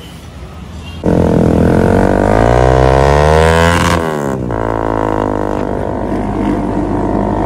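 Motorcycle engine accelerating, its pitch rising for about three seconds, then a brief drop about four seconds in as it shifts gear, and running on more steadily.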